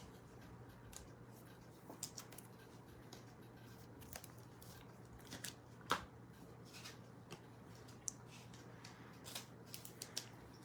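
Faint, scattered clicks and light rustling of sports trading cards being handled, over a low steady hum.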